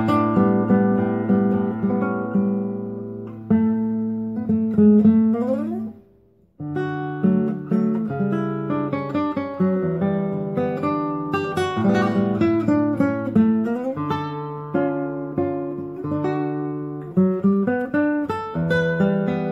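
Solo classical guitar improvising in a classical style with plucked notes and chords. About six seconds in, a rising run ends in a brief pause before the playing picks up again.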